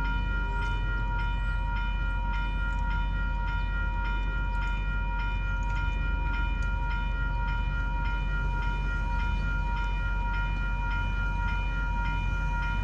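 Locomotive horn held as one long steady chord over the low rumble of a train, with faint regular clicks.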